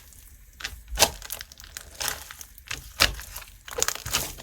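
Slime being squeezed and pressed by hand, giving a run of crackling pops, with sharper snaps about a second in and again about three seconds in.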